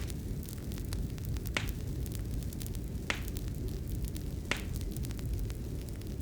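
Fire crackling in a fireplace: a steady low rumble with many small crackles, and three sharper pops about a second and a half apart.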